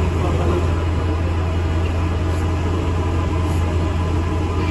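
Steady low hum and rumble of an ADL Enviro 400 MMC double-decker bus, heard from inside the passenger saloon.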